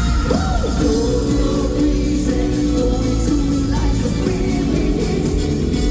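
Live band playing an upbeat funk-rock song at concert volume, with guitar, bass and drums.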